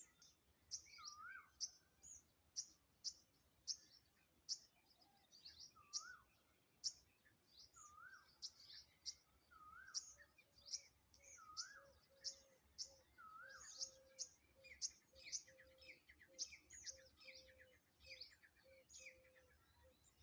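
Several birds calling at once, faint: many quick high chirps throughout, a lower whistle that rises and falls repeated about every second and a half for the first two-thirds, and a quick series of short low pips in the second half.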